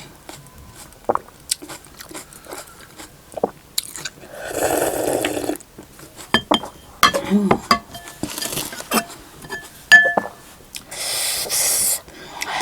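Close-miked eating sounds: chewing and smacking with many small clicks, and two longer noisy stretches of slurping hot soup, one about four seconds in and one near the end.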